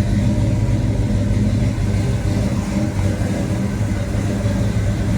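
Chevrolet 396 big-block V8 of a 1970 Chevelle Super Sport idling steadily.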